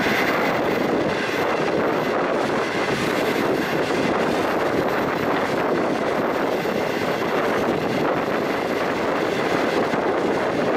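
Steady, loud running noise of a green-skin passenger train travelling through a tunnel: wheels on the rails and rushing air, echoed back off the close tunnel walls.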